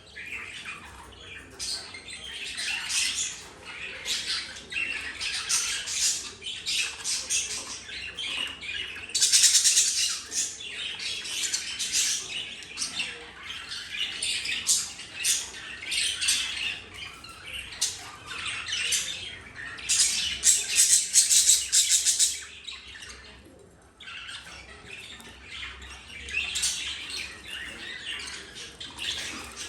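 Budgies chattering and squawking in quick, harsh calls, with loud drawn-out squawks about nine seconds in and again around twenty seconds in.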